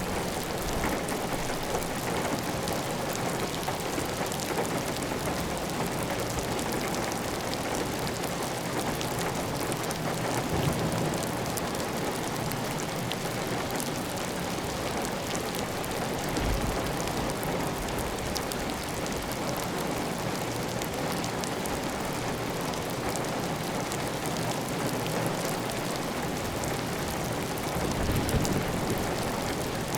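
Heavy, steady rain pattering on a clay tile roof, with water running off the roof edge. A few brief low swells rise out of the steady hiss.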